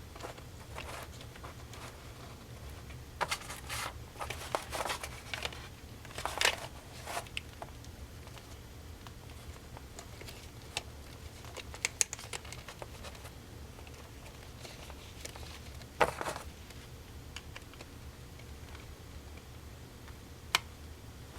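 Hands working on AKG K240 headphone parts: scattered light clicks and rustling handling noises, bunched in the first third, with a sharper burst about three quarters through and a single click near the end, over a low steady hum.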